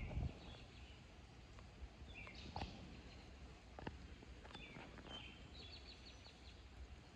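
Faint birds calling: scattered short high chirps, with a quick run of repeated notes near the end, over a low steady outdoor background.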